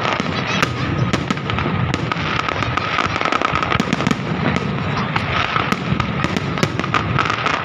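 Fireworks display: a dense, continuous stream of overlapping crackles and pops with no pause and no single standout bang.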